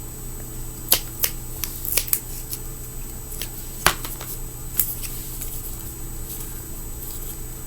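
Hands working foam grip tape onto a fingerboard deck: scattered sharp clicks and crackles, about seven in the first five seconds, over a steady low hum.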